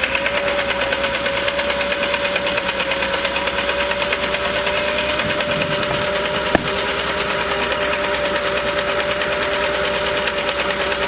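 Vintage Singer sewing machine running steadily at speed, stitching the decorative pattern of top hat cam #5, with a motor hum and a fast, even needle clatter. A single sharp click comes about six and a half seconds in.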